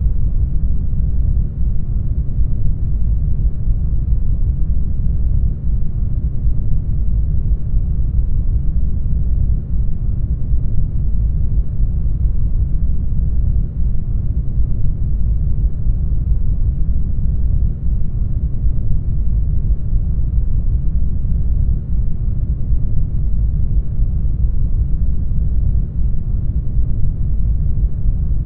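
Brown noise: a steady, deep rushing noise with most of its energy in the bass and almost no highs, with a small brief dip in level about every four seconds.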